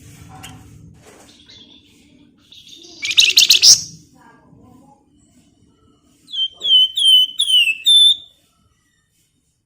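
A songbird of the kind Indonesian birdkeepers call flamboyan singing: a loud, rapid chattering trill about three seconds in, then a run of about five short, sharp whistled notes, each sliding downward, near the end.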